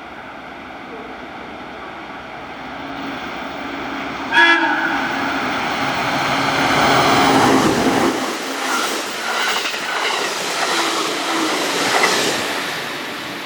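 An electric train on the Nippō Main Line runs through the station, its noise building up. Its horn gives one short blast about four seconds in. Its wheels then clatter over the rail joints, with repeated clacks as it goes by, before the sound fades near the end.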